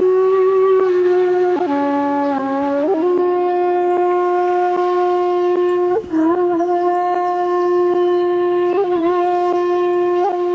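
Shakuhachi, the Japanese end-blown bamboo flute, playing long held notes. About two seconds in it dips briefly to a lower note, with short ornamental flicks between notes and a quick breath break about six seconds in.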